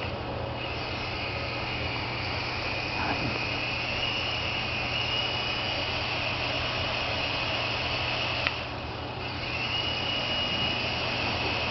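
Syma S107 micro RC helicopter's small electric motors and coaxial rotor blades running with a steady high whine. The whine dips briefly with a click about three quarters of the way through, then picks up again.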